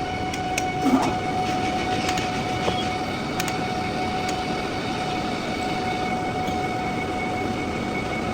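Metal lathe running while machining a steel pulley: a steady mechanical din with a constant whine, broken by a few sharp clicks and a louder knock about a second in.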